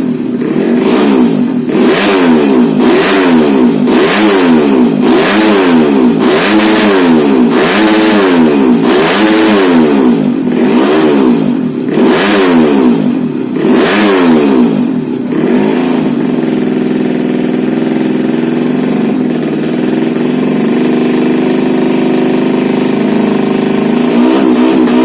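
Modified 125 cc underbone motorcycle engine being revved in quick blips, about one a second, then settling to a steady idle, and blipped again near the end.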